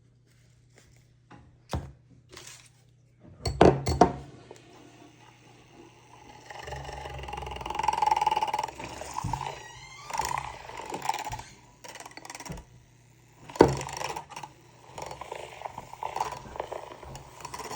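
Metal gym weights clinking and clanking: two sharp knocks, one a few seconds in and one about three quarters through, with lighter clinks and rattling between them. A steady low hum sits underneath.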